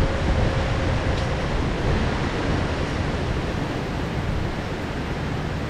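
Heavy rain downpour: a loud, steady, dense hiss with a strong low rumble underneath.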